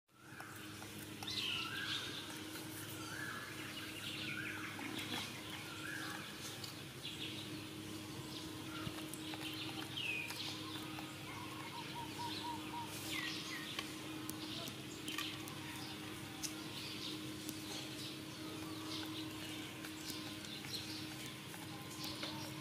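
Outdoor ambience: birds chirping and calling on and off, short chirps and quick falling whistles, over a steady low hum.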